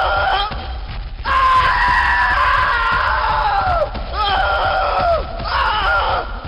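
A run of long, high-pitched human screams, several cries in a row, each falling away in pitch at its end.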